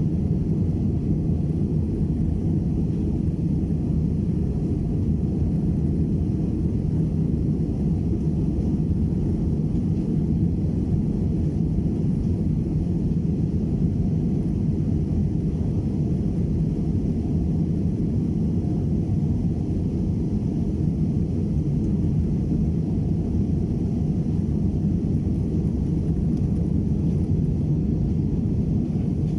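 Cabin noise inside an Airbus A320-216 in the climb after takeoff: a steady low roar from its CFM56 jet engines and the airflow past the fuselage, unchanging throughout.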